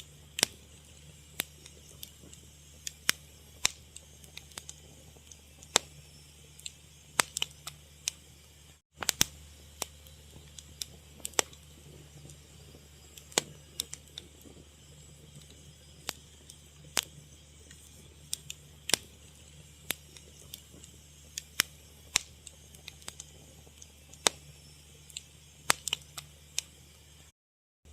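Fire crackling: irregular sharp pops and snaps, a few a second at most, over a low steady background. The sound cuts out completely twice for a split second.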